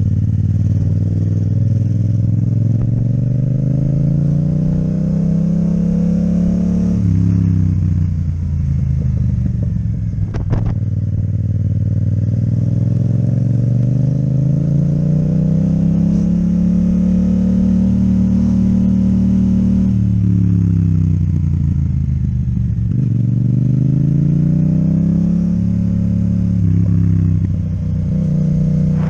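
Yamaha MT-07 parallel-twin engine through an Akrapovic exhaust, pulling on the road as engine speed climbs slowly, drops away twice and climbs again as the rider rolls on and off the throttle. A short sharp click is heard about ten seconds in.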